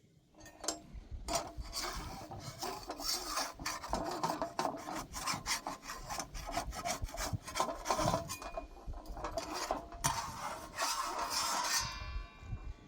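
Rapid, uneven scraping and rubbing strokes with many small clicks, like something rasped against a hard surface, stopping about a second before the end; a brief pitched sound follows near the end.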